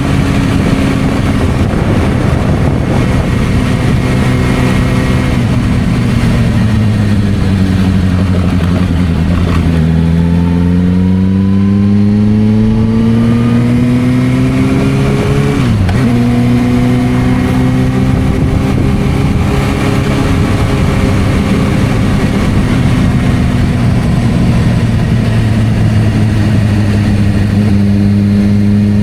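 Suzuki GSR600's inline-four engine running through a Dominator aftermarket exhaust under way. Its pitch climbs steadily for several seconds about a third of the way in, dips sharply for a moment around the middle, then holds fairly steady.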